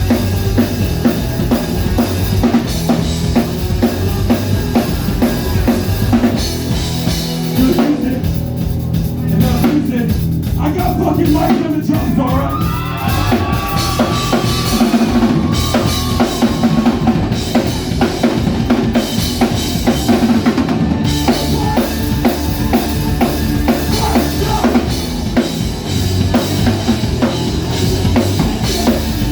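Live band playing a loud song, driven by a full drum kit with bass drum and snare, without vocals in this stretch; the cymbals and high end thin out briefly about eight seconds in.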